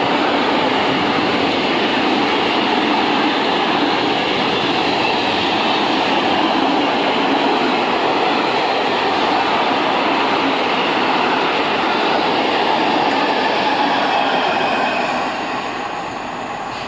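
Train passing at close range: a loud, steady rolling rumble of wheels on rails, easing off near the end.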